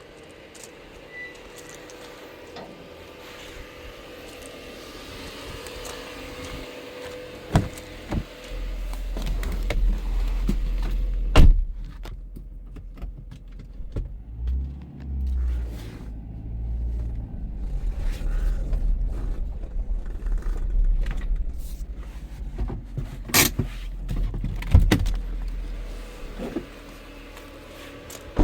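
Car sounds: a few sharp clicks and knocks such as doors and handling, then a low, uneven rumble that sets in about eight seconds in and runs on, like a car engine running.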